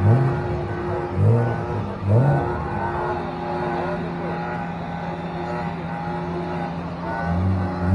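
A car engine running with steady tone, blipped in short revs near the start, about a second in and about two seconds in, then settling into a steadier run.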